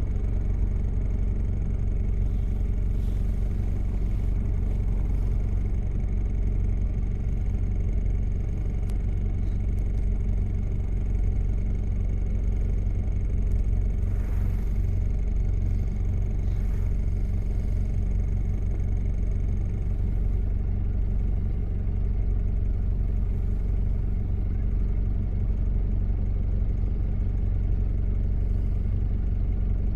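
Diesel engine of a 1993 Toyota Prado running steadily under way, a low, even drone with no change in pitch.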